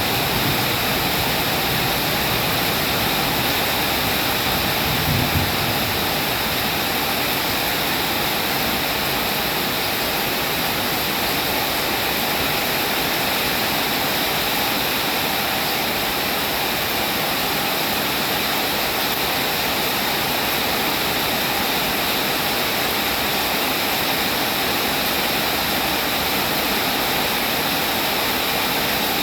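Steady rain, an even hiss of falling water, with a brief low rumble of thunder about five seconds in.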